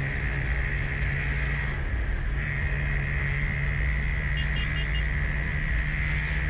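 Motorcycle riding fast, its engine holding a steady pitch under heavy wind rush on the microphone, with a few short high beeps about four and a half seconds in.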